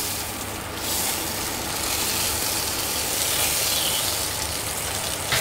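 Hot oil sizzling steadily in frying pans as king oyster mushroom rounds and a piece of beef loin sear.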